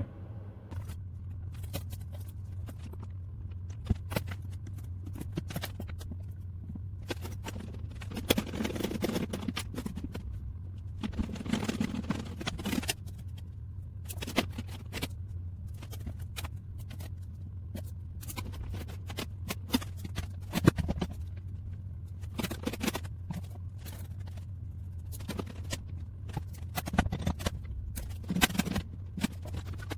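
Irregular clicks, taps and knocks from hands working on metal brake pipes, bending and test-fitting them, over a steady low hum.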